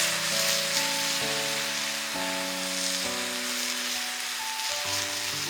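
Eel kabayaki sizzling as it grills over a wood fire: a steady hiss, under background music of sustained notes.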